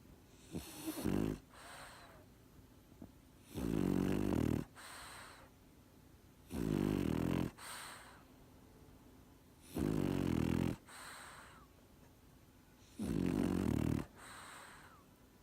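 French Bulldog snoring in its sleep: four loud, low snores about a second long, roughly every three seconds, each followed by a softer, breathy exhale, with a smaller snort near the start.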